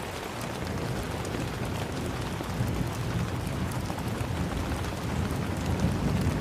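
Steady rain falling, a dense even hiss with many small drop ticks and a low rumble underneath.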